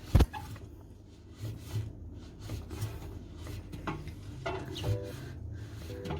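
A sharp thump just after the start, then faint rubbing and handling noises of a cloth wiping the inside of a front-load washing machine.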